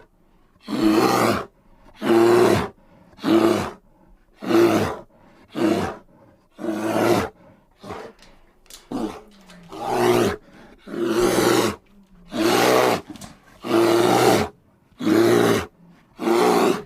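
Bear roaring in a long, regular series of short, loud roars, about one a second, with a brief irregular stretch around the middle.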